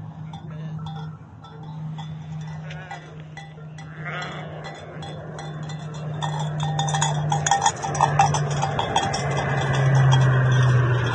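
Low-flying military aircraft's engine drone, a steady low hum that grows louder, its pitch dropping in the last few seconds as it passes.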